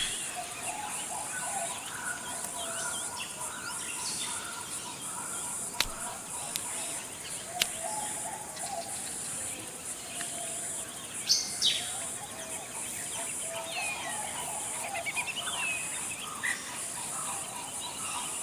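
Forest ambience: assorted birds calling and chirping over a steady high-pitched insect drone, with two sharp clicks about six and seven and a half seconds in. The loudest moment is a pair of quick sweeping calls about eleven seconds in.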